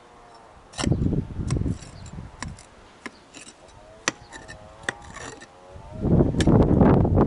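Demolition work on an old foundation: a handful of sharp knocks and clatters from tools on masonry, then, from about six seconds, a louder dense stretch of rough crunching noise.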